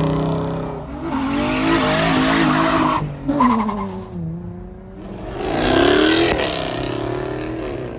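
Car engines revving and accelerating away, their pitch climbing and falling, loudest about two seconds in and again about six seconds in.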